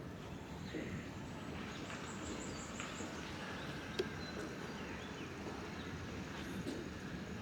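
Steady low background rumble of an outdoor railway platform, with a short run of high, rapid chirps about two seconds in and a single sharp click about four seconds in.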